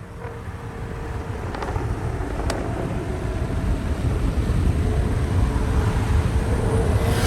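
Big-turbo car's engine and road rumble growing steadily louder.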